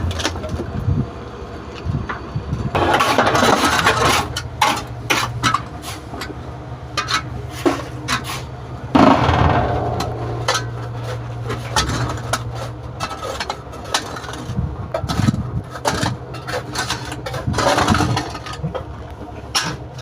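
Paver machine working: a steady low engine hum under repeated knocks, clatter and scraping. There are three louder rushing bursts, about three, nine and seventeen seconds in.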